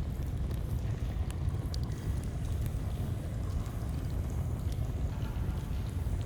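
Campfire crackling with scattered small pops over the steady low rush of a flowing stream.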